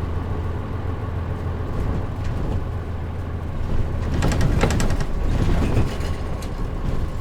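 Interior running sound of a Mitsubishi Fuso KL-MP37JM city bus: its diesel engine drones steadily, with the air conditioning off. There is a louder stretch of rattling from about four to six seconds in.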